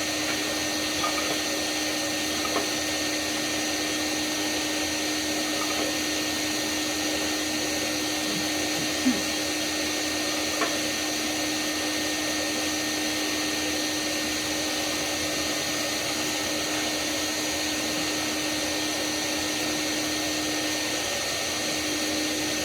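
Shop vacuum running steadily, with a few light metal clicks and knocks over it.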